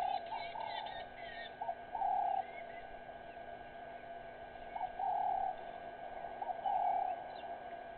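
A dove cooing: low hollow notes, a short note followed by a longer held one, repeated in groups every couple of seconds. Small birds chirp higher up during the first second and a half.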